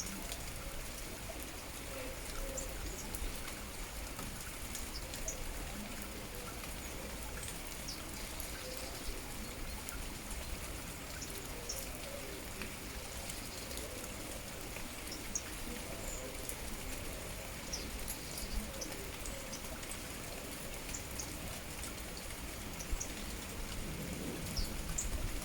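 Steady rain falling, with many individual drops pattering on surfaces, and a few faint, short, high bird chirps.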